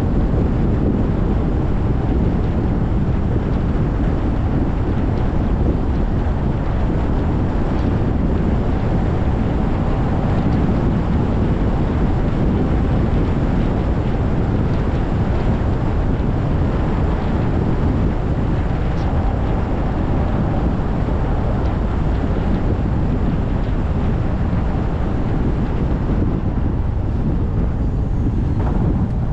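Car driving on wet pavement: a steady low rumble of road and tyre noise with a hiss of spray from the wet road.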